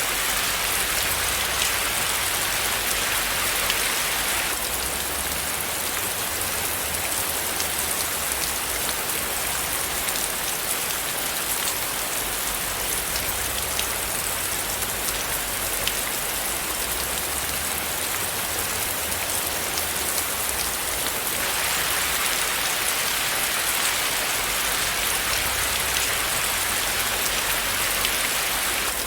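Steady rain falling on a surface: a dense, even patter with individual drops ticking through it. The hiss dulls slightly about four seconds in and brightens again about 21 seconds in.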